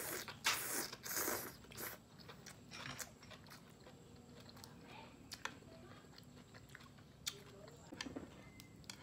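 Close-miked chewing of a grilled beef roll filled with bell pepper and crisp enoki mushrooms: loud crunchy bites in the first two seconds, then quieter chewing with a few sharp clicks.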